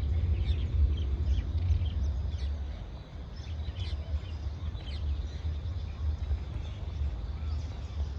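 Outdoor ambience: a strong, uneven low rumble, with many short bird chirps and a steady high insect tone.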